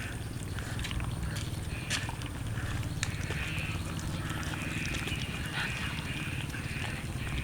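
Cats eating roast chicken: repeated chewing and wet mouth noises, with scattered sharp clicks of bites.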